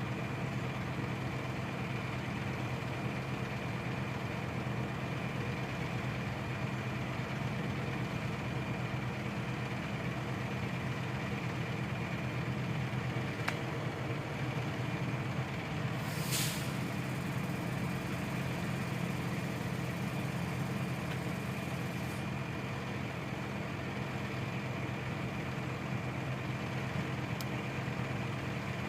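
Shingle delivery truck's engine running steadily, with a short hiss about midway.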